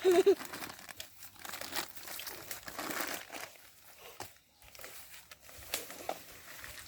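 Dry brush and twigs rustling and crackling, with scattered sharp snaps, as firewood is handled.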